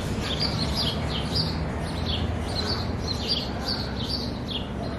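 Small birds chirping, short high chirps several times a second, over a steady low background rumble.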